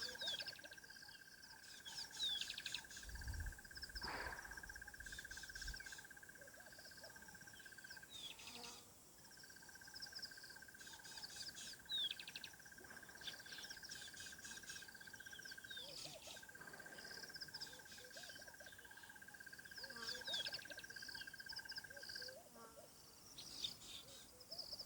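Wild birds chirping and whistling, with a long, even buzzing trill at a single pitch that runs in three long bouts of six to eight seconds each, broken by short pauses.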